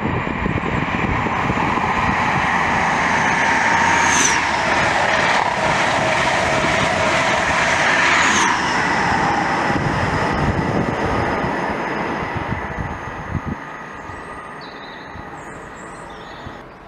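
An East Midlands Railway HST passing at speed: its diesel power car and wheels on the rails make a loud, steady rush, with a high whine that falls in pitch as it goes by. The sound fades away over the last few seconds.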